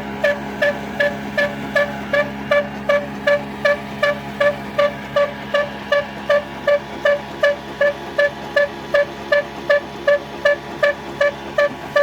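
An old stationary engine driving a flour mill (ata chakki), running at a slow, steady beat of about three strokes a second, each beat with a ringing metallic tone, over a steady hum.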